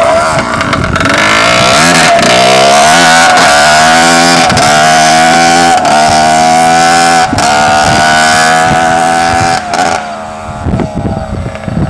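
Dirt bike engine running loud and close, revving up and down with several brief dips in pitch, then falling away quieter about ten seconds in as the bike moves off.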